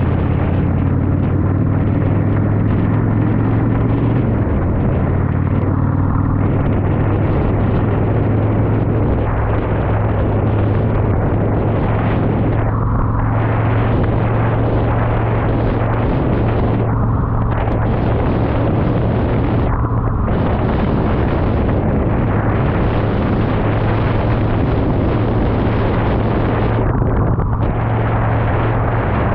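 Yamaha V-Star 1100's air-cooled V-twin engine running steadily while riding, its low drone under a constant rush of wind and road noise.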